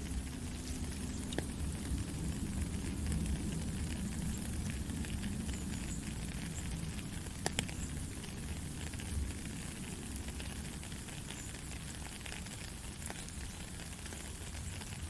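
Heavy rain falling steadily, with scattered sharp drop ticks and a low rumble underneath.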